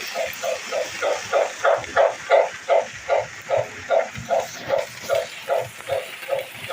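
Steam locomotive chuffing in a steady rhythm of about three beats a second, the beats growing stronger around the middle.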